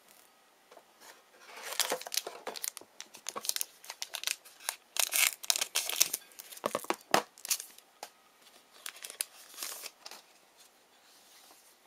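Foil trading-card pack wrapper being torn open and crinkled, in irregular crackling bursts that start about a second and a half in and die away near the end.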